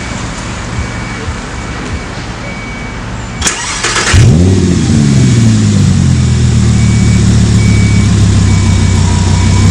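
Audi R8 V10 with a Milltek exhaust starting up. A short whir of the starter is followed about four seconds in by the engine catching with a loud rev flare that rises and falls, then settling into a steady idle.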